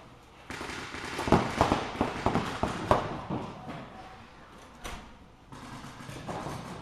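Reball paintball markers firing: a quick run of sharp pops starting about a second in, then a few scattered shots.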